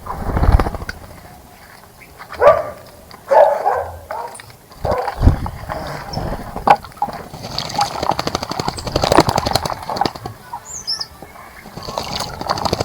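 Birds bathing in a bird bath: irregular bursts of water splashing and wing flapping, with a short high bird chirp late on.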